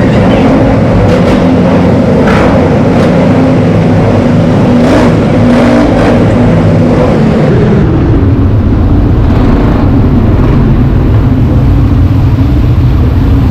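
Quad bike engine running under way, loud and steady, easing off about halfway through.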